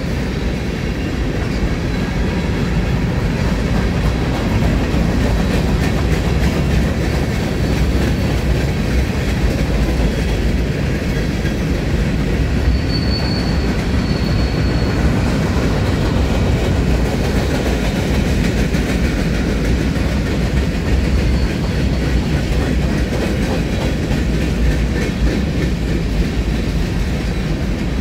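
Norfolk Southern freight train's cars rolling past close by: a steady, loud rumble and clatter of steel wheels on the rails. A brief high squeal comes about halfway through.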